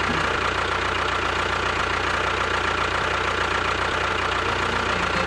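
Small motor of a homemade miniature construction vehicle running steadily, a constant whir with a thin steady tone above it.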